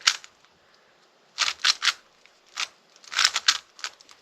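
Rubik's cube being turned by hand: short runs of quick plastic clicking turns, in about five bursts with brief pauses between them.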